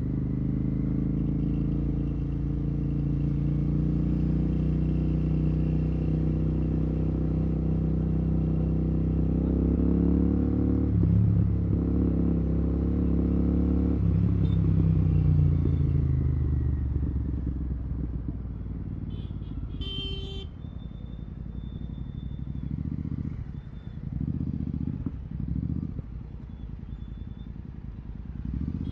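Royal Enfield Continental GT 650's 648 cc parallel-twin running through an aftermarket Red Rooster exhaust with no dB killer. Its note climbs steadily under acceleration for about fourteen seconds, then drops away as the bike slows. A short high beep comes about twenty seconds in, followed by a lower, uneven engine note with throttle pulses in traffic.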